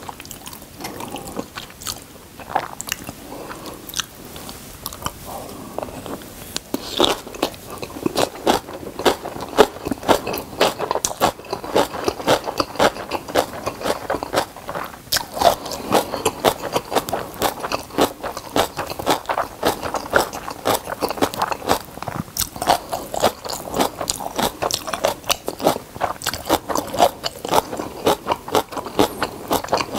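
Close-miked chewing of a mouthful of rice and kimchi: a dense run of quick, wet chewing clicks that grows louder and more regular from about eight seconds in.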